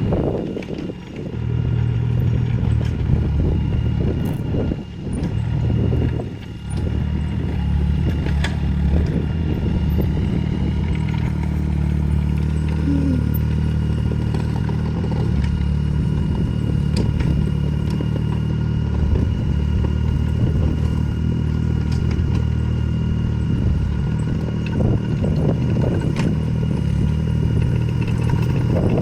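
Mini excavator's engine running steadily under work, dipping briefly a few times, with faint knocks of the machine at work.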